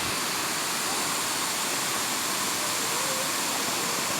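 Kuang Si waterfall's cascades pouring, a steady, even rush of falling water.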